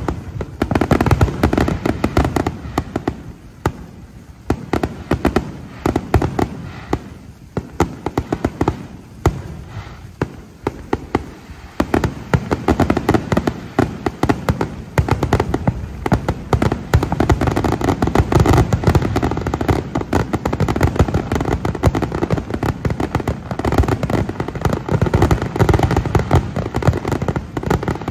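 Fireworks display: a rapid, continuous barrage of booming bursts and crackling, getting denser and more sustained about halfway through.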